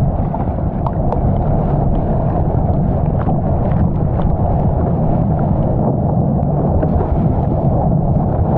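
Strong wind rumbling over the microphone of a camera out on the water while wing foiling, a steady loud buffeting with a few faint ticks over it.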